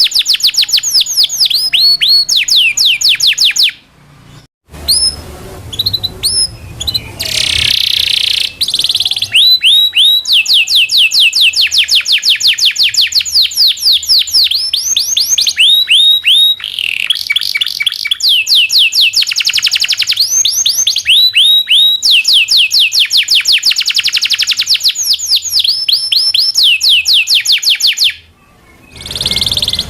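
Local canary singing a long song of fast trilled rolls: rapid runs of repeated downward-sweeping whistled notes, with short breaks about four seconds in and near the end.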